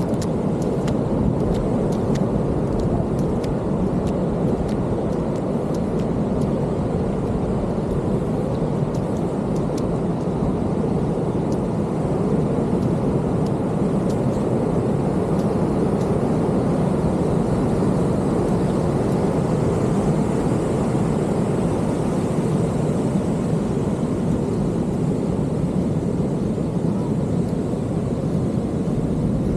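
Steady roar of heavy ocean surf breaking on the beach.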